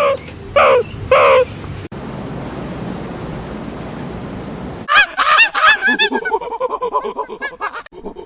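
Animal calls: three loud calls, each falling in pitch, then after a cut a few seconds of steady noise, then from about five seconds in a fast run of short calls, several a second.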